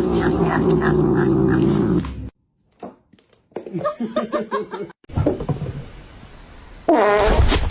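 Domestic cat vocalising: a long drawn-out yowl, then a cut to silence, then short meow-like calls, and another loud wavering yowl near the end.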